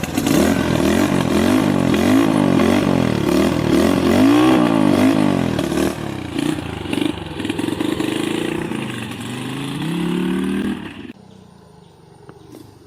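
Motorcycle with a Honda Unicorn 150cc single-cylinder engine and a shortened, rewelded Hunk silencer, revving up and down over and over as it is ridden. Near the end it makes one longer rise, then falls away sharply about eleven seconds in.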